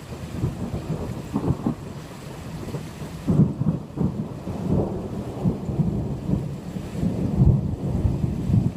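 Thunder rumbling and rolling in uneven surges, growing louder after the first second, with its strongest peaks about a third of the way in and again near the end.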